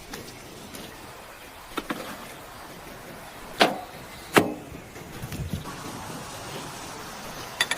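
A few short, sharp knocks over a low steady background: one about two seconds in, two more around three and a half and four and a half seconds, and a quick double click near the end.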